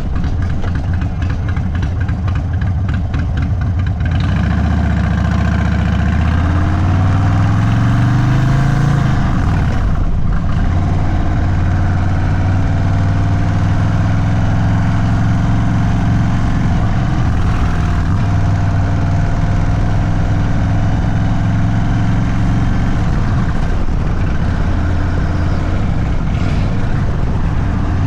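Indian Sport Chief's V-twin engine running through a Sawicki Speed aftermarket exhaust, a stage 2 build. It idles for about four seconds, then pulls away with the pitch rising, changes gear about ten seconds in, and runs at a steady cruise after that.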